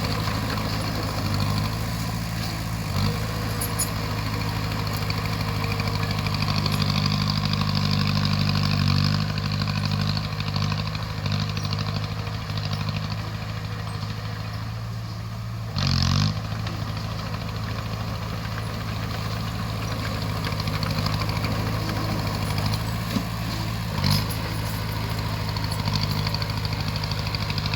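Crawler bulldozer's diesel engine running steadily, rising a little in level partway through, with a brief loud knock about sixteen seconds in and a couple of smaller knocks.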